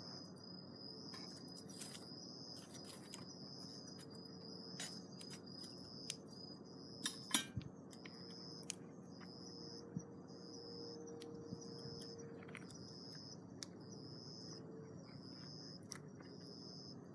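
Campfire crackling, with scattered sharp pops and a cluster of the loudest about seven seconds in. Over it an insect trills high and steady, pulsing a little more than once a second later on.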